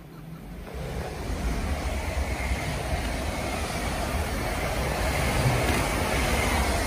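Passenger multiple-unit train passing close by at speed: a steady rush of wheels on rail over a low rumble, building over the first second.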